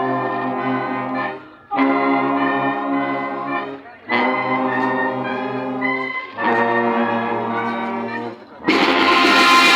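Student brass band holding four long sustained chords, each cut off with a short break. Near the end the full band comes in louder, with drums and cymbals.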